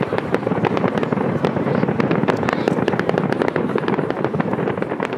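Fireworks display going off in a dense, unbroken barrage of bangs and crackling.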